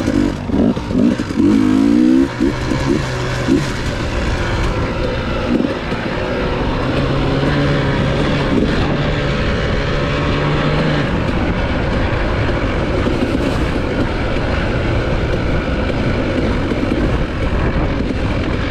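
Enduro dirt bike engine revving up several times, then running at a fairly steady speed.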